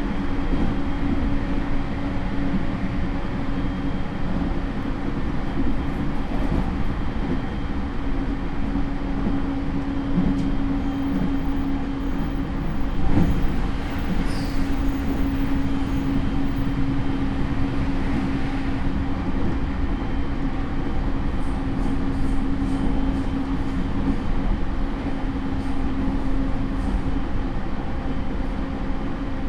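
Running noise inside a JR E231 series electric train's motor car (Hitachi IGBT inverter): continuous wheel-and-rail rumble with a steady hum at constant speed. About 13 seconds in there is a brief louder knock followed by a few seconds of brighter hiss.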